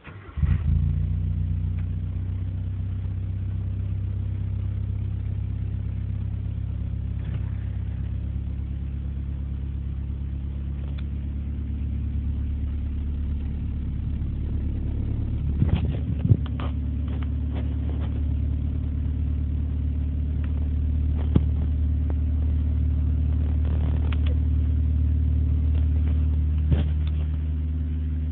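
A Honda ESi sedan's engine cranks briefly and catches about half a second in, then idles steadily on a cold start after nine days unused. A few sharp clicks are heard over the idle later on.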